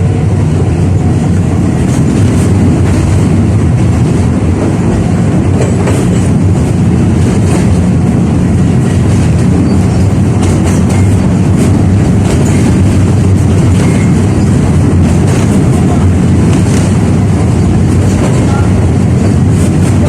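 A 71-605A (KTM-5A) tram running along the track, heard on board: a loud, steady rumble with scattered light clicks from the wheels and rails.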